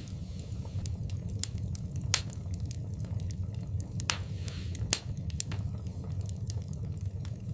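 Wood fire burning in a fireplace, crackling: frequent sharp pops and snaps over a steady low rumble of flame, with louder pops about two seconds and five seconds in.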